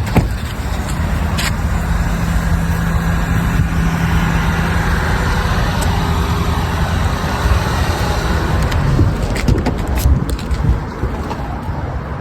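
A motor vehicle running nearby, with a steady low engine hum and noise that swells through the middle and eases off. A few sharp knocks come near the end.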